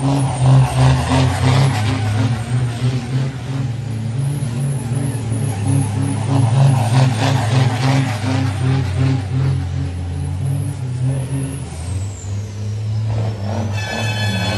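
Scania heavy trucks' diesel engines running loud, with surges of noise about a second in and again around six to eight seconds, and a falling whistle near the end.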